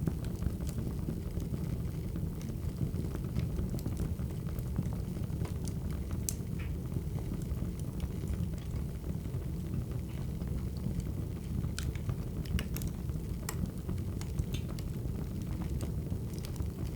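Wood fire burning: irregular sharp pops and crackles over a steady low roar.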